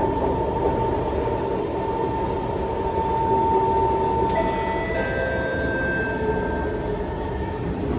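Singapore MRT train running, heard from inside the car: a steady rumble under an electric motor whine. About four seconds in, the single whine gives way to several higher steady tones that fade out near the end.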